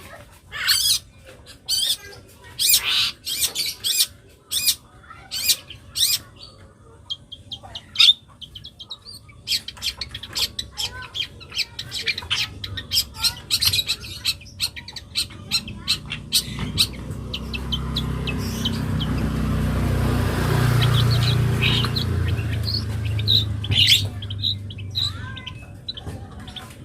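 Young long-tailed shrike singing in short, sharp, chattering phrases rich in mimicked calls, dense at first and then scattered. In the second half a low rumble swells and fades, the loudest thing a little past the middle.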